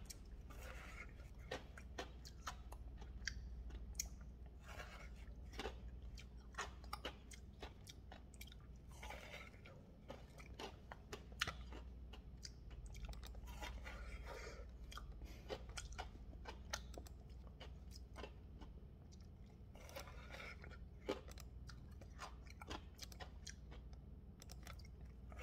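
A person chewing and crunching peach-flavoured Polapo frozen slush ice sucked from its squeeze tube: faint, irregular small crunches.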